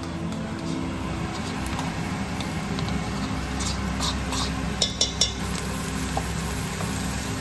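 Onions frying in an enamelled cast-iron pot, sizzling steadily as a spatula stirs them. About four to five seconds in, a handful of sharp clicks come as a spoon scrapes spice out of a measuring cup into the pot.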